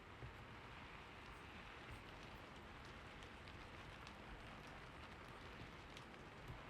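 Faint, steady rain, with scattered light ticks of single drops.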